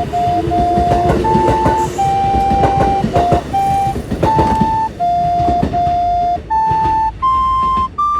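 A simple tune of clean electronic beep tones, stepping between a few notes and climbing at the end to one long high note. Under its first half runs the clattering of a passing train, the Kintetsu Shimakaze, fading out.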